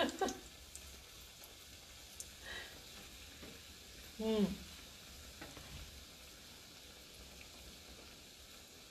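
Pieces of cenci dough sizzling steadily in shallow hot seed oil in a frying pan. A brief falling hum of a woman's voice cuts in about four seconds in.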